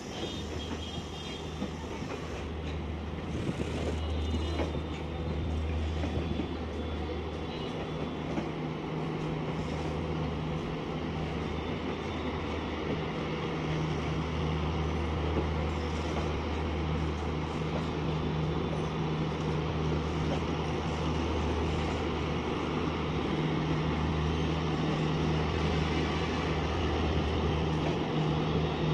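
Maharajas' Express LHB passenger coaches rolling slowly past along a station platform on arrival: a steady running noise of wheels on rail, with a low hum that swells and fades, growing slightly louder over time.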